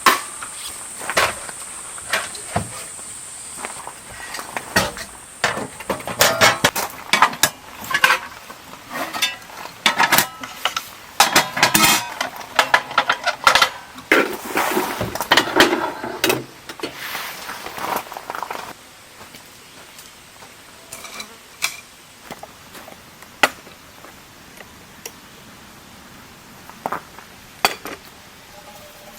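Dishes and cutlery clinking and clattering in quick, irregular knocks, busiest through the first two-thirds, then only an occasional clink.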